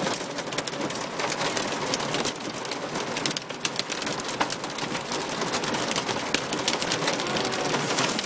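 Rain hitting the car's roof and windshield, heard from inside the cabin: a dense patter of sharp ticks over a steady hiss.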